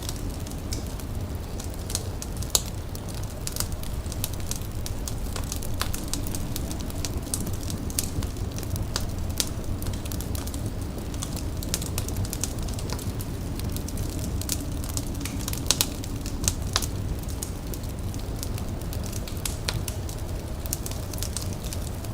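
A fire crackling, with irregular sharp pops over a steady low rumble; a few louder pops stand out, one about two and a half seconds in and a couple around sixteen seconds in.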